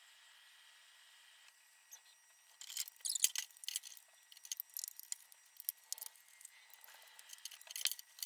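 Crisp rustling and small clicks from light objects being handled close by, starting about two and a half seconds in and coming in uneven bunches.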